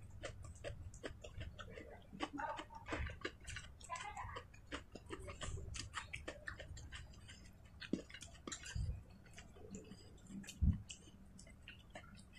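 A person chewing food by mouth, with many short irregular clicks and smacks, and a few soft low thumps toward the end.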